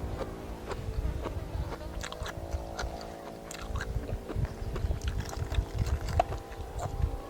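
A person chewing and biting crunchy food, with small clicks and crunches, over a steady hum.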